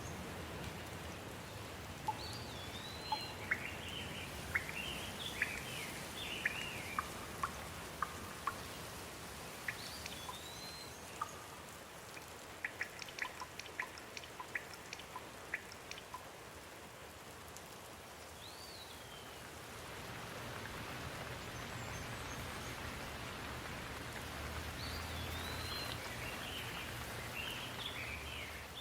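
Steady rain falling, with birds chirping in short, gliding calls now and then. About halfway through comes a flurry of short, sharp ticks.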